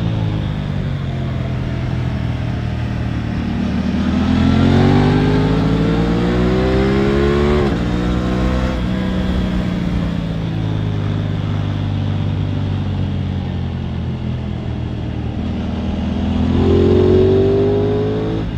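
Aprilia RS 660's parallel-twin engine pulling under way. It revs up, drops sharply at a gear change about halfway through, and runs steady for a while. Then it revs up again and shifts once more at the end.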